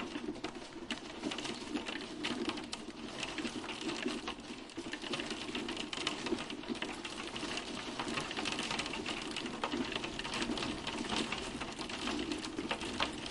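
Hail falling steadily: a dense, continuous patter of many small hailstones ticking and clicking on hard surfaces.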